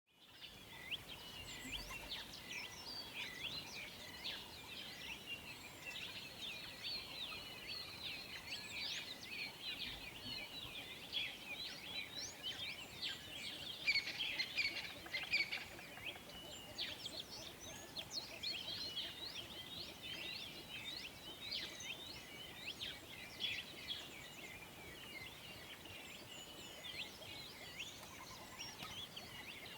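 Many birds chirping at once in a dense, overlapping chorus of short, quick chirps and twitters, with insects underneath.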